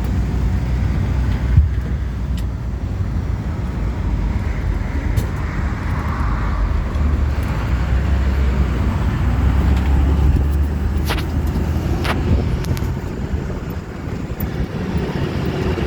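Amphibious duck boat running steadily with a low engine rumble, heard from on board as it moves along. Two short sharp clicks about a second apart come in the last third.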